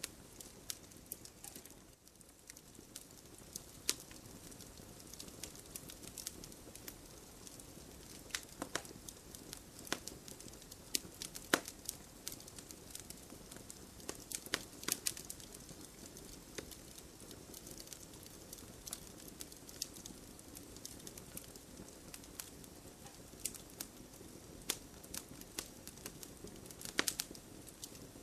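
Wood fire burning in a fireplace, with a steady low hiss and frequent irregular sharp crackles and pops.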